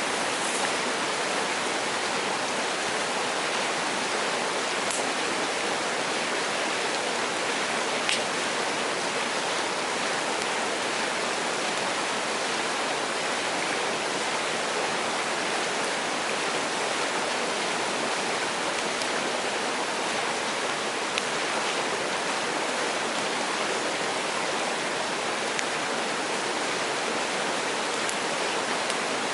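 Mountain stream rushing steadily over rocks, with a few faint clicks here and there.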